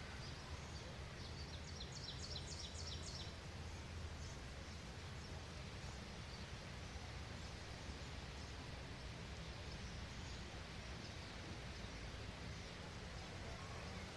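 Faint outdoor ambience of steady noise and low rumble, with a bird giving a rapid high trill of short chirps for about two seconds, starting about a second in.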